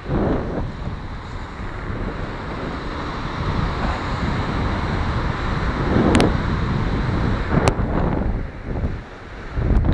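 Wind buffeting the microphone in a steady low rumble, with surf washing in the background. Two sharp clicks come about six and seven and a half seconds in.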